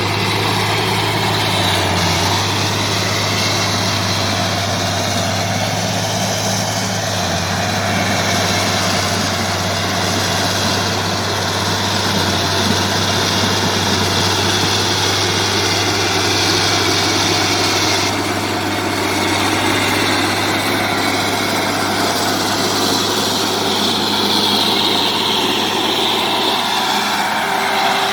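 Bulldozer's diesel engine running steadily as it works: a constant loud drone, with a few small shifts in tone.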